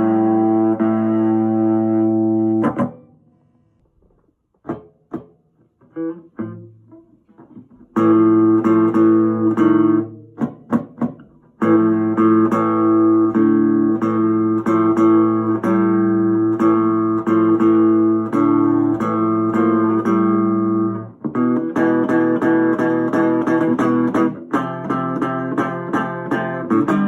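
Guitar playing an instrumental passage of sustained chords. About three seconds in it thins to a few scattered plucked notes, and around eight seconds in full chords return; near the end they become a quicker, evenly strummed rhythm.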